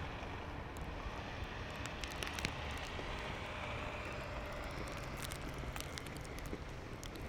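Steady city street ambience in a snowstorm: a low rumble of traffic and wind, with scattered faint clicks.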